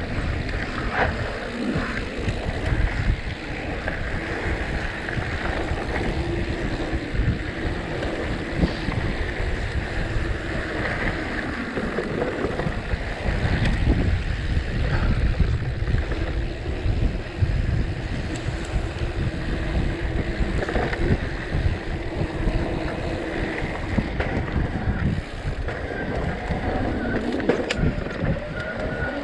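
Wind buffeting the microphone over the steady rumble and rattle of a mountain bike descending a dirt trail, with small knocks from the bumps.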